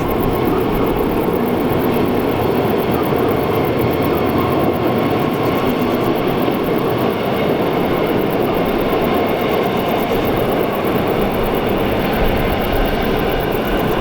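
Rhaetian Railway train running along the track: a steady, even rumble that does not change.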